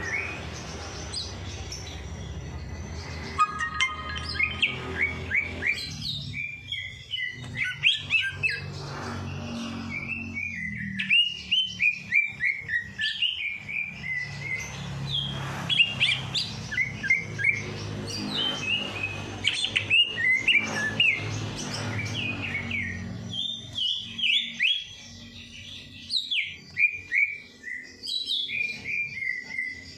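Small songbirds chirping and twittering in rapid runs of short, high notes with quick whistled slurs, a birdsong recording of the kind played to prompt caged birds to sing. A steady low hum underneath fades out about two-thirds of the way through.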